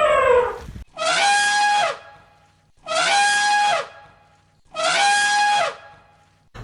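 Cow mooing: the falling tail of one long moo, then the same short moo three times, about a second each and evenly spaced. Each call holds its pitch and then drops away at the end.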